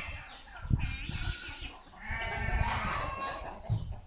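Goats bleating: a short call about a second in, then a longer wavering bleat about two seconds in, over low bumps and rustle close to the microphone.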